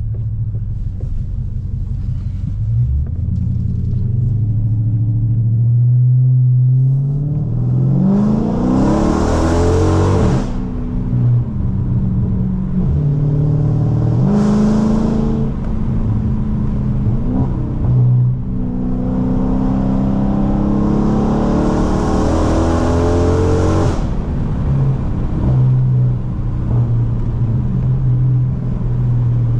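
Dodge Charger Scat Pack's 6.4-litre HEMI V8 through catless mid-pipes and a straight-piped race exhaust with no mufflers or resonators, cruising with a low rumble and opening up in hard accelerations with rising revs: a pull about a quarter of the way in, a short burst near the middle and a longer pull past the middle.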